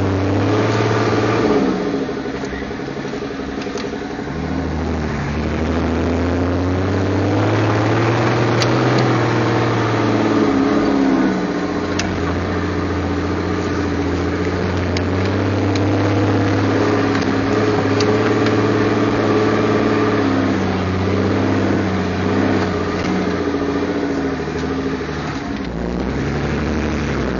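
A large Toyota's engine heard from inside the cab while it drives across soft sand dunes. The engine pitch rises and falls as the throttle is worked: it dips about two seconds in, climbs around eight seconds and eases off again. A few light clicks from the cab come through.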